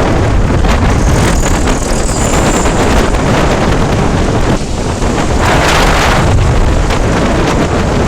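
Loud, steady wind rush buffeting the microphone on a motorcycle moving at speed, with road noise underneath. It swells briefly a little past five seconds in.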